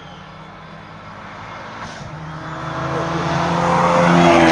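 Hill-climb race car's engine approaching under hard acceleration, growing steadily louder with its note climbing, then dipping in pitch near the end.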